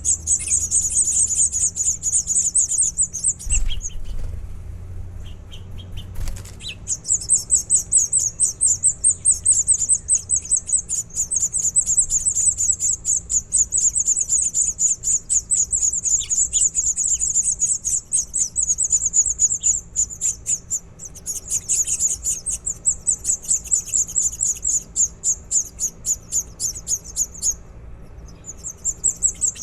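Nestling birds chirping in a fast, high-pitched, almost unbroken stream, with two brief pauses, one about four seconds in and one near the end. Two knocks come about three and a half and six seconds in.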